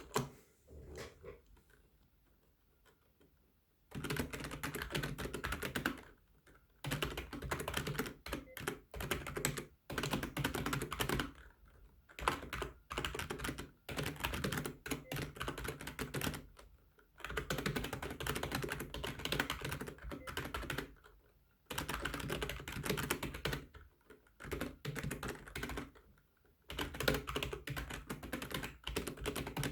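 Fast touch-typing on a computer keyboard: a few isolated keystrokes at first, then from about four seconds in, dense runs of rapid key clicks lasting one to three seconds each, with short pauses between them.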